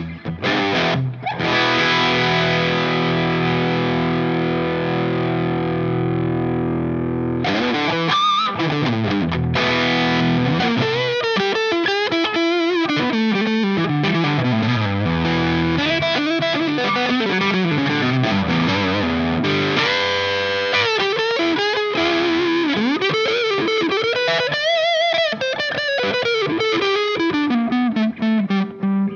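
Electric guitar played through a DOD Looking Glass FET overdrive pedal, with an overdriven tone. A chord rings out and fades over several seconds, then single-note lead lines follow, with string bends and vibrato.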